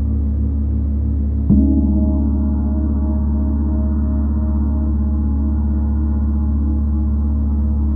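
Gong ringing in a sustained low drone, struck again about a second and a half in, after which the ringing swells with a brighter shimmer and keeps sounding.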